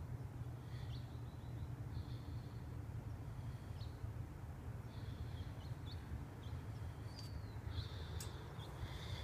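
Birds chirping, short high calls repeating every second or so, over a steady low rumble.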